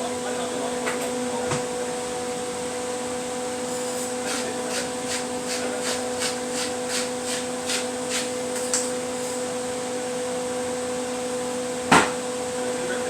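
Kitchen cooking sounds over a steady whirring hum: from about four to nine seconds a run of light, rhythmic utensil strokes in the pan, about three a second, and near the end one sharp knock.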